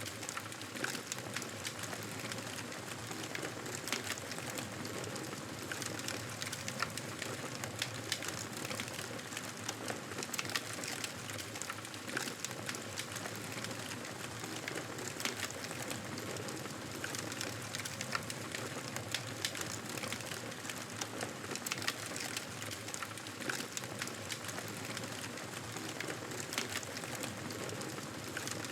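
Wood fire crackling in a fireplace: a steady hiss with frequent small pops and snaps throughout.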